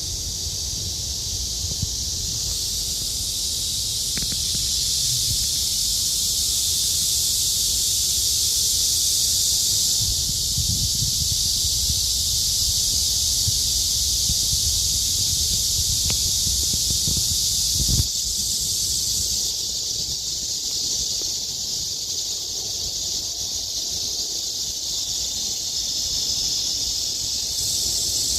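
A chorus of cicadas buzzing in the trees: a loud, steady, high hiss that swells and shifts a few times, with a low rumble underneath.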